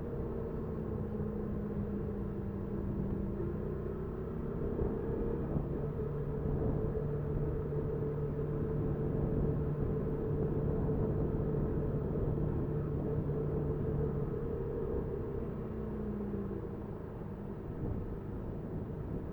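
Honda Super Cub 50's small single-cylinder engine running under way, with steady rumble from wind and road. Its tones hold steady and shift in pitch a few times as the speed changes.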